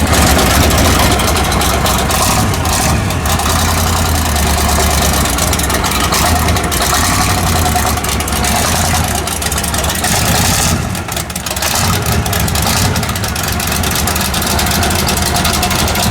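A vehicle engine idling steadily, with a constant low hum and a brief dip in level about eleven seconds in.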